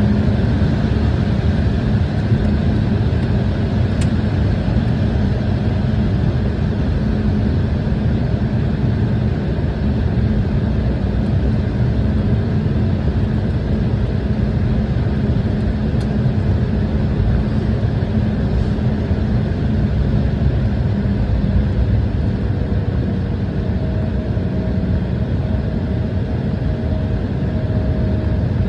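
Embraer E175 airliner with its GE CF34 turbofans running, heard as a loud, steady rumble with a low hum. A thin steady tone joins about three-quarters of the way through.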